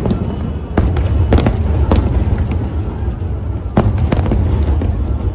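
Aerial fireworks shells bursting in the sky. About five sharp bangs, at roughly one, one and a half and two seconds in and twice more near four seconds, over a steady low rumble.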